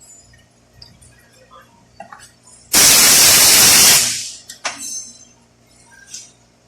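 A one-second blast of compressed air from an air blow gun: a loud, even hiss that starts suddenly and tails off. It is used to blow out transmission parts during the rebuild. Light metallic clicks of parts being handled come before and after it.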